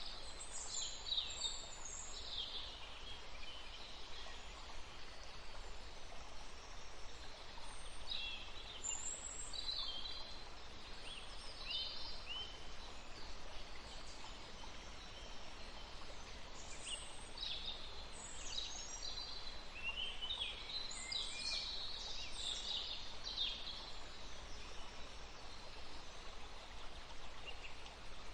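Birds chirping in clusters of short, quick high calls, busiest at the start, around the middle and again late, with quieter stretches between, over a steady faint hiss.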